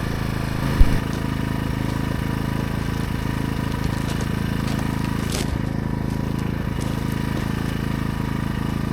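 AiVolt 1600-watt gas inverter generator's small engine idling steadily, with one thump about a second in.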